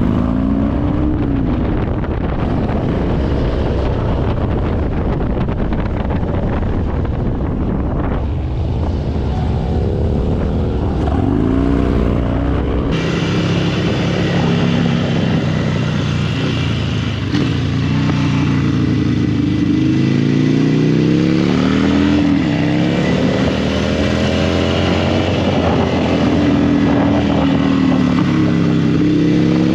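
Harley-Davidson V-twin motorcycle under way, its engine note rising and falling repeatedly as it revs up and eases off, over a heavy low rumble and rushing noise. The sound changes abruptly partway through.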